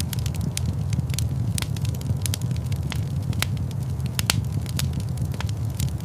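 Wood fire in a fireplace crackling, with frequent irregular pops and snaps of varying loudness over a steady low rumble.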